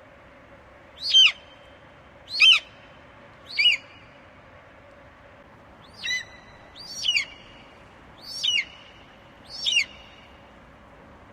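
Eagle calling: a series of seven short, high, shrill calls, each sliding down in pitch, three in quick succession, a pause of about two seconds, then four more, about a second apart.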